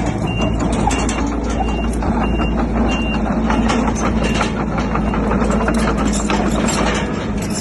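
Bulldozer's diesel engine running under load with its tracks clanking, and its reversing alarm beeping steadily, about five beeps that stop about three seconds in.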